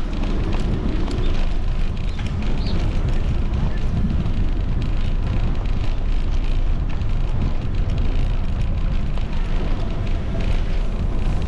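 Steady wind buffeting on a moving bike-mounted action camera's microphone, a continuous low rumble, with faint voices passing in the background.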